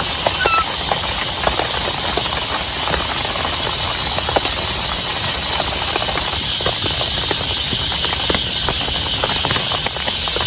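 Heavy rain falling steadily on a tent, with many separate drops ticking on the fabric.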